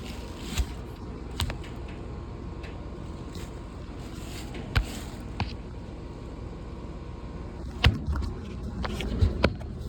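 Several sharp knocks and clicks, the loudest about eight seconds in, over a steady low rumble.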